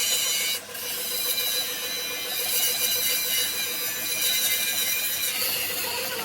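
Steady high-pitched whine of a power tool running, with a brief dip about half a second in.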